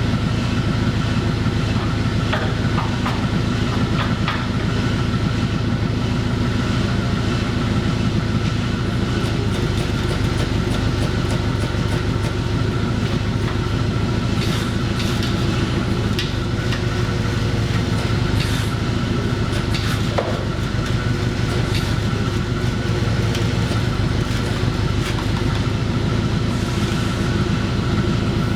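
A forklift's engine running steadily at idle, with scattered short metallic knocks and clanks over it.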